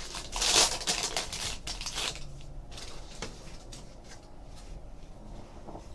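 Trading card pack wrapper and cards being handled: crinkling and rustling for about two seconds, then quieter, with a few soft clicks as cards are sorted.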